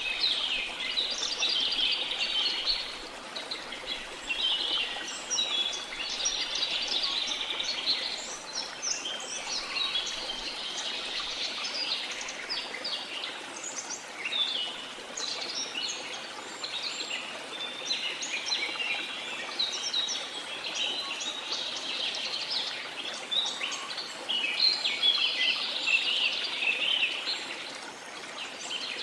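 A chorus of many birds chirping and calling rapidly and continuously, in quick overlapping high-pitched phrases, over a faint steady hiss beneath.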